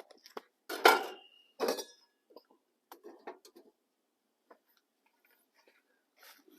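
Cookware being handled: two louder clanks about a second apart, the first with a short metallic ring, among lighter clicks and taps.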